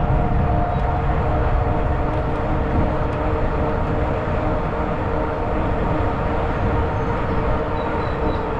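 Riding noise of a Zota Zephyr 20-inch fat-tire e-bike under way: wind rumbling on the microphone over a steady hum with a few steady whining tones.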